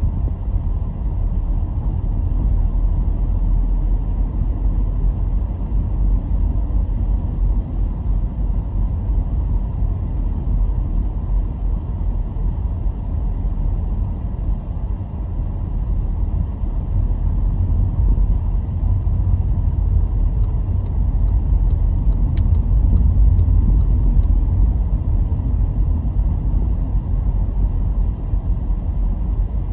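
Car driving along, a steady low rumble of engine and road noise that swells a little past the middle.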